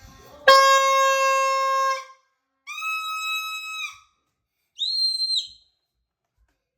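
Torotot party horn blown in three blasts, each higher than the last: a long low one about half a second in, a higher one, then a short very high one.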